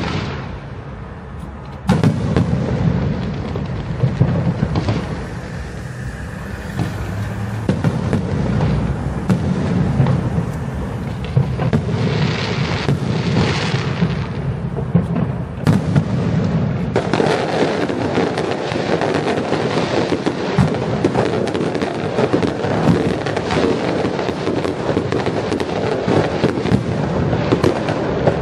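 Fireworks going off: scattered bangs and booms, becoming dense, rapid crackling about halfway through.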